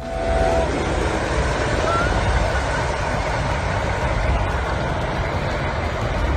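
A train running along the track: a steady rumble with rushing noise.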